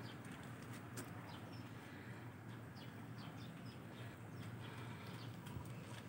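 Faint background ambience: small birds chirping now and then over a low steady hum.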